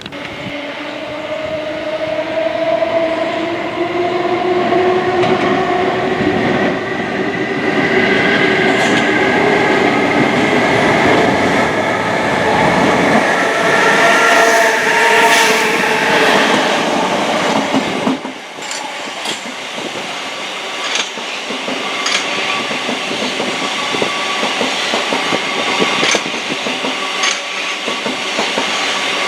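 Train passing on the line: a whine of several tones that slowly rises in pitch for most of the first 18 seconds, then stops abruptly, leaving the running noise of the train and a scattering of sharp clicks of wheels over rail joints.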